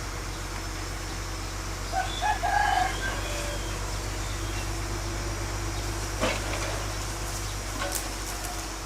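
A rooster crowing once, about two seconds in, over the steady low drone of a bulldozer's engine running. A couple of short knocks come later.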